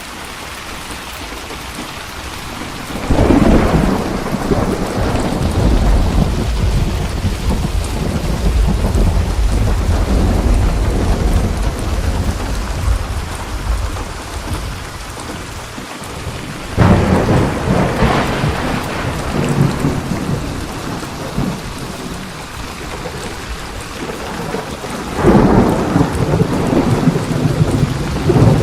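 Steady rain with thunder: three thunderclaps break in sharply, about three seconds in, around seventeen seconds and near the end, each rolling on as a long low rumble over the rain.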